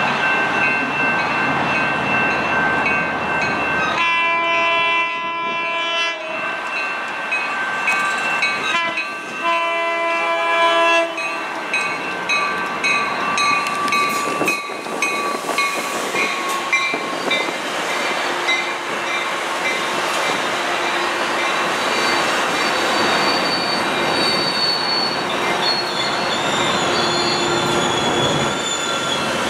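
Coaster commuter train sounding its horn in two long blasts, about 4 and 9 seconds in, as it approaches. It then rolls through the station with rumbling wheels and high, drawn-out wheel squeal; near the end the diesel locomotive pushing at the rear comes by.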